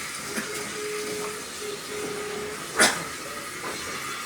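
Heritage train running, heard from inside a passenger carriage: a steady hiss and rumble, with a thin steady tone that comes and goes over the first couple of seconds and a single sharp clunk about three seconds in.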